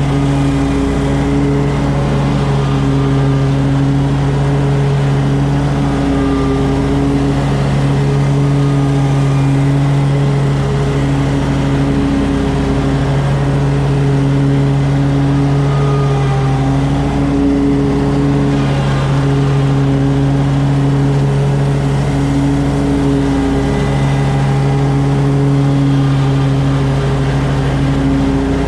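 Commercial lawn mower engine running steadily at mowing speed while cutting grass. Its pitch dips and recovers slightly every few seconds as the load changes.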